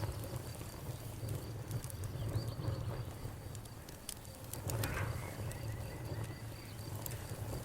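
Campfire burning, with irregular sharp crackles and pops over a steady low rumble of the flames, and a brief hissing flare about five seconds in. A steady high insect trill, like crickets, runs behind it.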